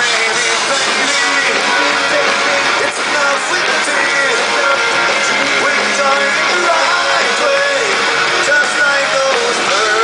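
Live rock band playing, with guitars and a singing voice over the band.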